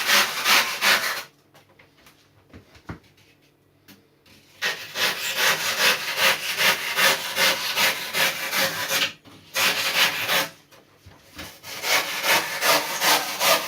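Hand rip saw cutting through cured poured foam in quick back-and-forth strokes, about three a second. The strokes come in three runs, stopping about a second in and again briefly around nine to eleven seconds, as the foam is sliced thin to a rough shape.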